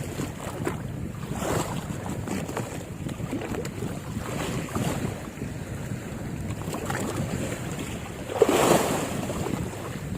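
Wind buffeting the microphone over waves washing, with recurring swells of noise, the loudest wash about eight seconds in.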